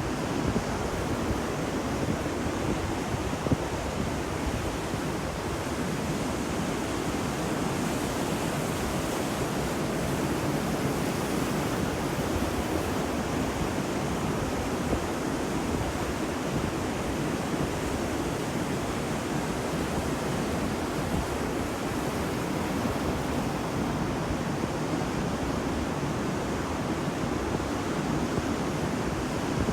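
Ocean surf on a beach: a steady, even rush of breaking waves with no distinct swells rising or falling.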